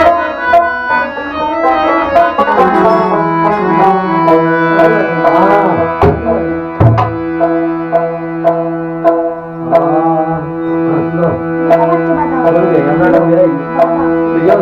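Baul folk music: tabla strokes over a steady held drone, with a melody line that slides in pitch.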